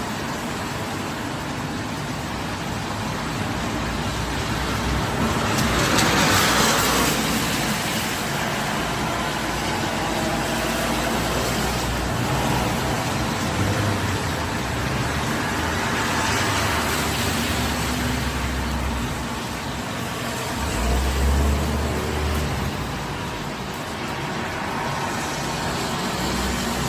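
Road traffic in the rain: a steady hiss of rain and wet tyres, with vehicles swelling past about six seconds in and again around sixteen seconds, and a brief low rumble a little after twenty seconds.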